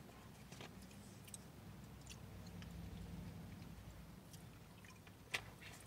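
Faint chewing and swallowing, with scattered small clicks and one sharper click near the end.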